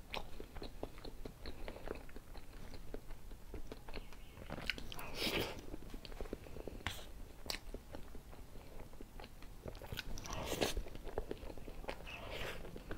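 Close-miked chewing and mouth sounds of eating a whipped-cream cake with fruit filling, with small taps and scrapes of a metal fork cutting into the cake on its board. A few louder bursts of mouth noise stand out among the steady small clicks.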